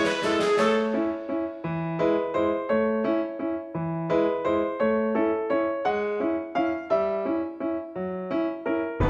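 Background piano music: a steady run of single notes and chords, each ringing out and fading.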